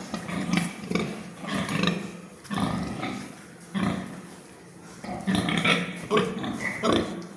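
A series of short animal calls, likely from farm animals, coming irregularly about a dozen times.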